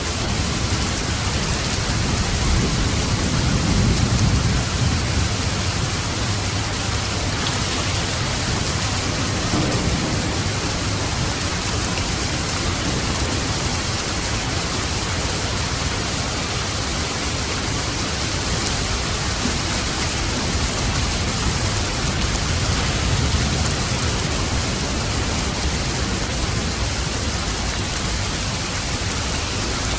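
Steady rain with a low rumble of thunder that swells about four seconds in and comes back more weakly later.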